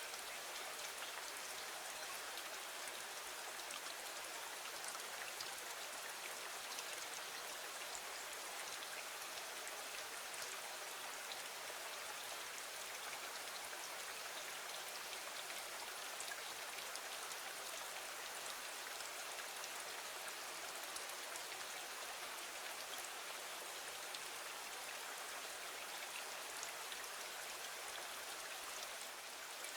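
Steady rain: an even hiss with scattered faint ticks.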